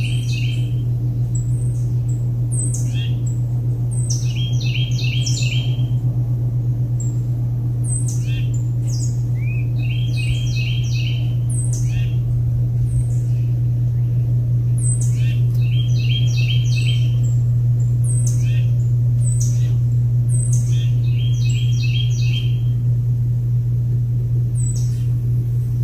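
A songbird sings the same short phrase about every five seconds: a few quick, high, falling notes, then a run of about five rapid, evenly spaced notes. Under it runs a loud, steady low hum.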